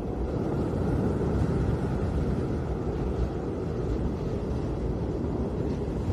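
Snowstorm wind blowing: a steady deep rushing noise that swells and eases slightly, with no distinct events.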